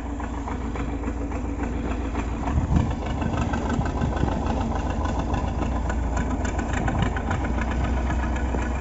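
MTZ (Belarus) tractor's diesel engine idling steadily.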